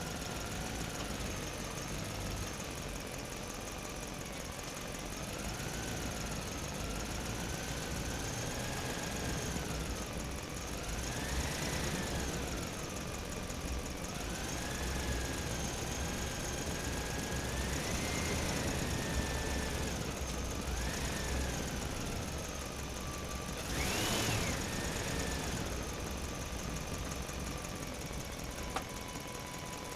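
Radio-controlled model excavator's electric motors whining as the boom and bucket are worked. The pitch rises and falls continually, with a brief louder surge near the end.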